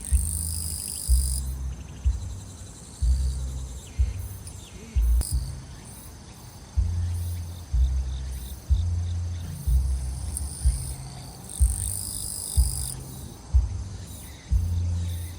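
Thumping bass of music from nearby, low notes changing in an uneven beat, over a steady high-pitched chorus of crickets and other grass insects. The insects swell into louder high buzzing spells about a second long near the start and again near the end.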